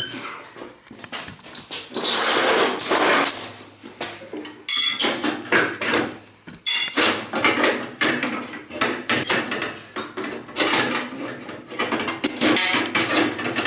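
Metal ATV exhaust pipe being pulled and wrestled against the frame, with irregular clanking and scraping strokes; the pipe is stuck and won't come out past the wheel.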